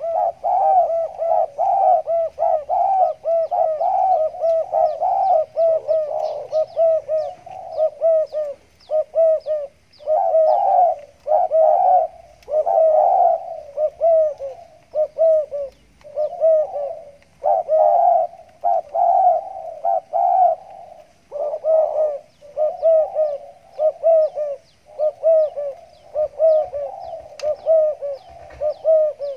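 Spotted dove (tekukur) cooing over and over in the stuttering "gagap" style: phrases of quick, broken coos with short pauses between them.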